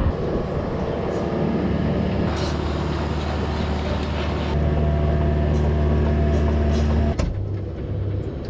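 Large engine running steadily with a deep hum, with an abrupt cut to a quieter, different running sound about seven seconds in.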